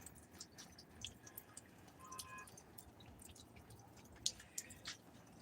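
Faint, irregular ticks of water drips and scattered raindrops in a light sprinkle after a thunderstorm, with a couple of louder drops near the end. A brief faint tone sounds about two seconds in.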